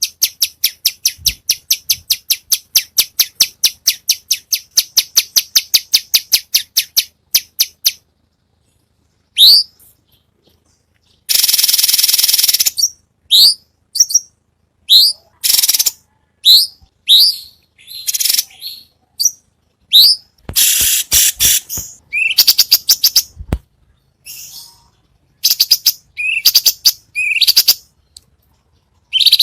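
Recorded songbird song used as masteran (tutor song for caged songbirds): a fast run of short high notes, about seven a second, for the first seven seconds, then after a pause a harsh rasping burst, followed by a string of short, high sweeping whistled notes with sharp silences between them.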